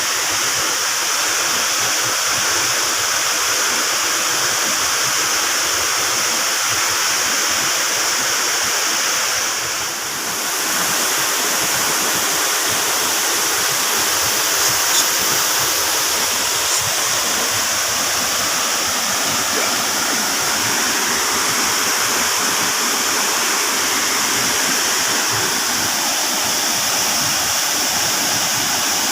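Waterfall rushing steadily, a loud, even roar of falling water that dips briefly about ten seconds in.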